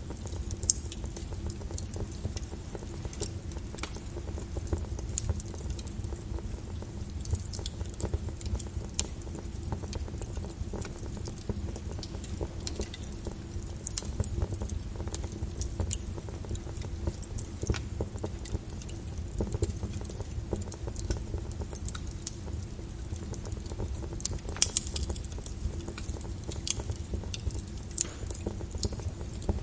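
Wood fire crackling in a fireplace: a steady low rumble of flames with frequent irregular sharp pops and snaps, a few louder ones, one about 25 seconds in.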